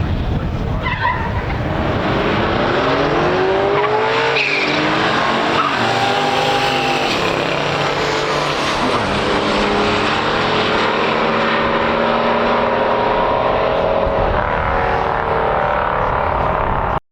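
Race cars at full throttle down a drag strip: the 1969 Corvair Monza's flat-six and the 1970 Oldsmobile W31's 350 V8. The engine notes climb in pitch, drop back at a shift about four seconds in, then climb and hold; the sound cuts off suddenly at the end.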